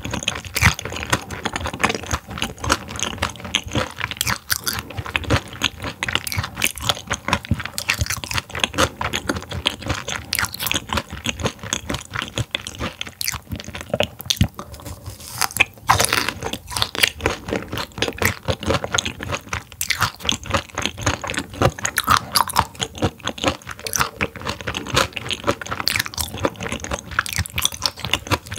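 Close-miked chewing and crunching of raw silver pomfret (butterfish) sashimi that was frozen before slicing: a quick, steady run of crunching bites.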